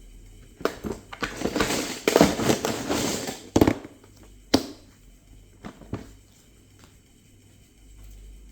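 Plastic Lego pieces clattering and rattling for a few seconds while being handled, followed by several sharp clicks and knocks of plastic against plastic.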